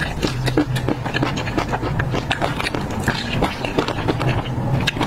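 Close-up chewing of crunchy chopped peanuts in chili sauce: a dense run of small crackling crunches and wet mouth clicks, over a low steady hum.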